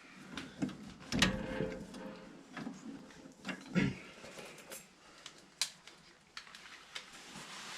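Hand tools and metal furnace parts being handled: scattered clicks and knocks, with a louder clatter about a second in.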